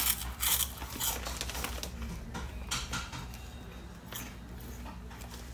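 A person biting into and chewing a crunchy barbecue cheese puff, with several sharp crunches in the first couple of seconds that thin out into quieter chewing.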